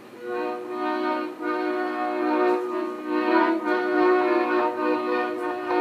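Accordion playing slow, held chords that change every second or two, heard on an old tape recording that runs slightly fast and so sounds a little high.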